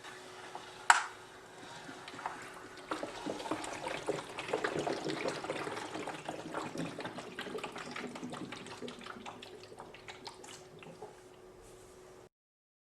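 Liquid sloshing and trickling inside a rotating Pythagorean theorem model as it is turned, swelling and then dying away, over a faint steady hum. A sharp click about a second in is the loudest moment.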